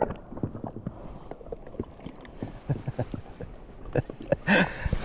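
Irregular knocking and clattering, short hard knocks at no steady rhythm, with a brief louder burst about four and a half seconds in.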